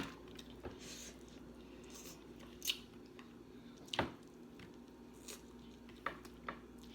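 Close-up eating sounds of someone chewing snow crab: about six short wet clicks and smacks of mouth and lips, the loudest about four seconds in, over a faint steady hum.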